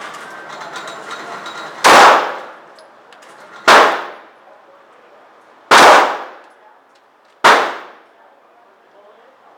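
Four shots from a Glock 9mm pistol fired one at a time, about two seconds apart, each a loud crack with a short fading tail.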